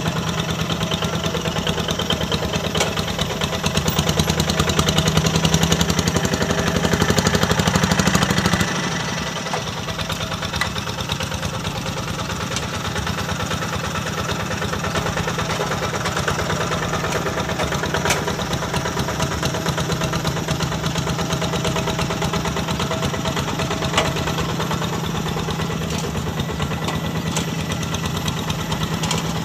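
Kubota diesel engine of a Quick G1000 Boxer hand tractor running steadily with a throbbing beat while it works a rice paddy; it runs louder for a few seconds, then drops back abruptly about nine seconds in and carries on at a lower level.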